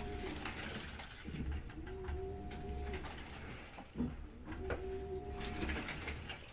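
Washing machine in its wash cycle: the drum motor hums in surges of about a second and a half, each rising in pitch as it starts, repeating regularly about every two and a half to three seconds as the drum turns back and forth, over a steady hiss. A short knock comes about four seconds in.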